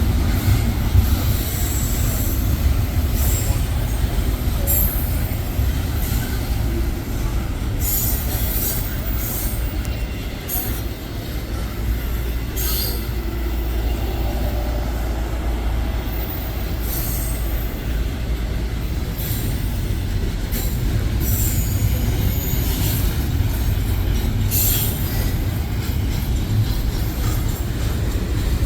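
Train rolling past: a steady deep rumble of wheels on rail, with short high, hissy bursts coming and going every few seconds.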